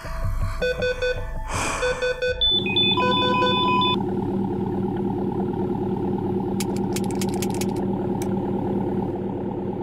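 Electronic beeps about a second apart, broken by a short whooshing swell, then a car engine idling steadily, with a few light clicks near the end.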